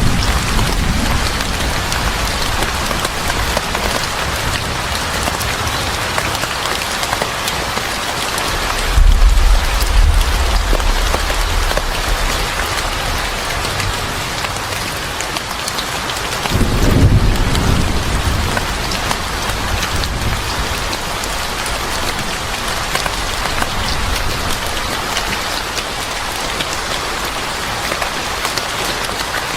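Steady heavy rain, a dense even hiss of drops on a surface, with two low rumbles of thunder: one about nine seconds in and another about seventeen seconds in.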